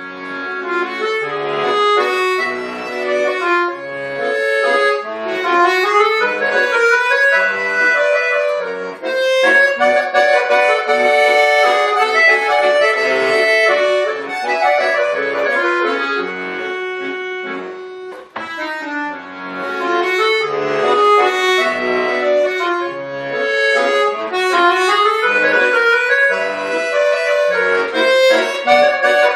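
Bayan, a Russian button accordion, playing a solo piece: a melody over chords and separate bass notes. It starts right at the beginning and breaks off briefly about 18 seconds in.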